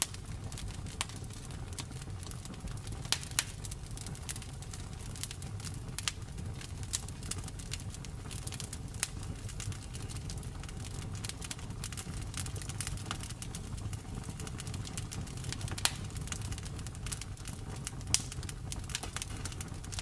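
Wood fire in a fireplace crackling: a steady low rumble of flame under frequent small, irregular pops, with a few louder snaps scattered through.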